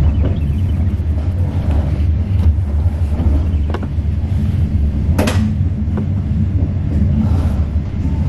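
Running noise inside a moving 25G passenger coach: a steady low rumble of wheels on rail, with scattered faint clicks and one sharp click about five seconds in.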